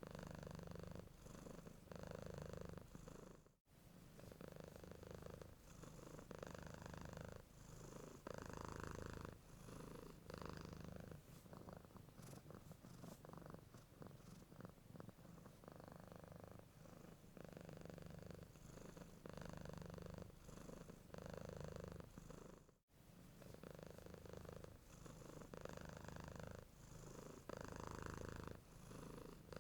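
Domestic cat purring quietly and steadily, the purr swelling and easing in cycles of about a second with each breath. The sound cuts out briefly twice, about 4 seconds in and about 23 seconds in.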